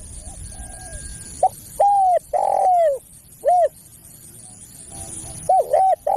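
Spotted dove (tekukur) cooing: a soft coo phrase at first, then loud phrases of short and longer drawn-out coos, a little over a second in and again near the end. This is the bird's call used as a lure to bring in wild doves.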